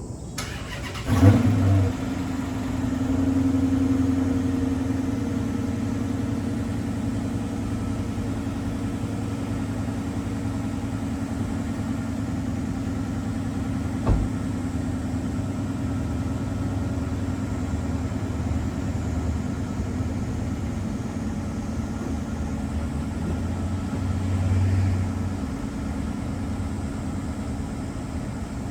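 Dodge Challenger 5.7 HEMI V8 on its factory exhaust, cold-started: it fires about a second in with a loud flare, then settles into a steady cold-start idle. A single sharp click sounds about halfway through, and the idle swells briefly near the end.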